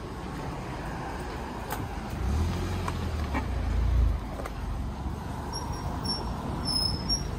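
Volkswagen Golf GTI creeping into a car-wash bay, its engine a low rumble that swells about two to four seconds in as it passes close by.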